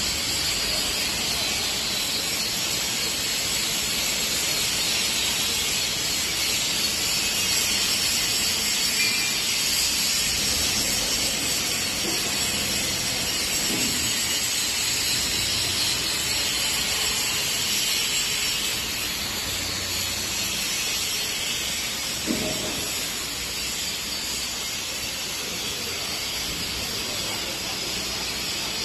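Electric welding arc hissing and crackling steadily.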